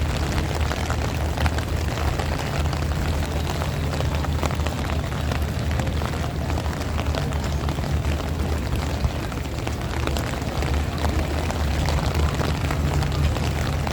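Strong wind buffeting the microphone as a steady low rumble, with heavy rain falling, its many small drop hits heard throughout.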